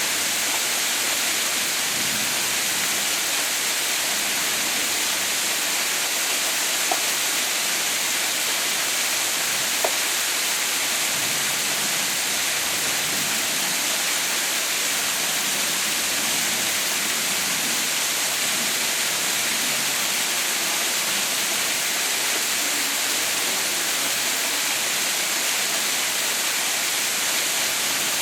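A waterfall rushing steadily, an even hiss of falling water, with two faint brief clicks about seven and ten seconds in.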